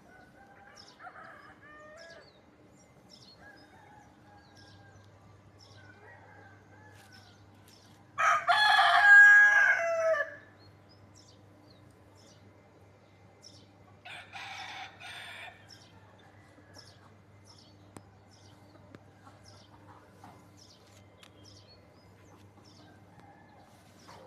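Rooster crowing loudly once, about a third of the way in, with a second, fainter crow about six seconds later. Faint high chirps repeat throughout.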